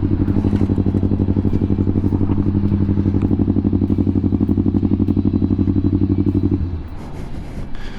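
Motorcycle engine idling with a fast, even throb, dropping away about six and a half seconds in.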